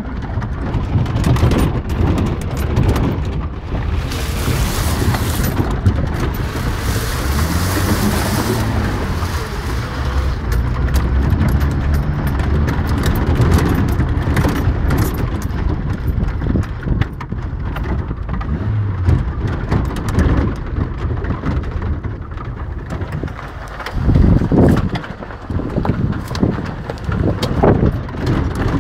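Suzuki Samurai off-roader driving over rough dirt, heard on board. The engine runs steadily with shifting revs under a rushing, rattling noise, and several heavy jolts come near the end.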